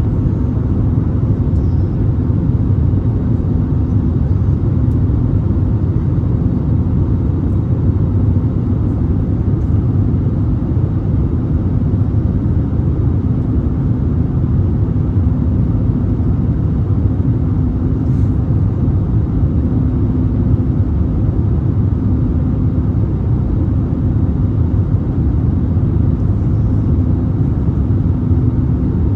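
Jet airliner cabin noise in flight: a steady low rumble of engines and airflow heard from inside at a window seat, with a faint hum that comes and goes.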